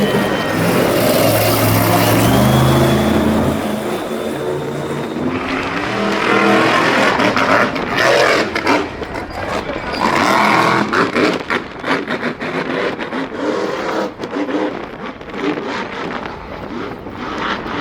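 Vehicle engines revving hard at a motorsport show. The pitch rises and falls over the first few seconds, then gives way to a rougher, noisier engine sound.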